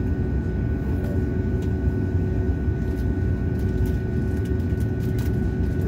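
Cabin noise of an Embraer 195 airliner on the ground before take-off: a steady low rumble with a steady hum over it, from the running aircraft systems and engines.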